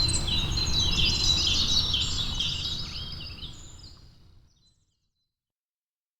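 Birds chirping in quick, rising and falling calls over a low rumble, all fading out to silence about four seconds in.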